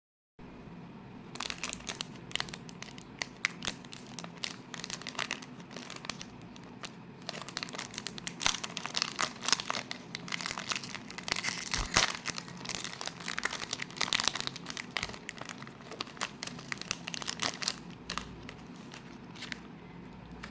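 Plastic wrapper of a packaged Swiss roll crinkling and crackling as it is handled and opened by hand, busiest about halfway through.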